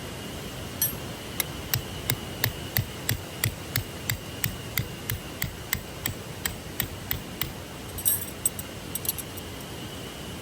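A run of sharp, evenly spaced hammer-like knocks, about three a second, ending about seven and a half seconds in, then a brief cluster of lighter knocks.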